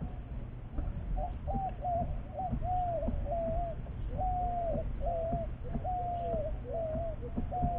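A bird calling in a run of about a dozen short whistled notes, each held level and then dropping, one to two a second. A steady low rumble runs beneath it, with a few faint clicks.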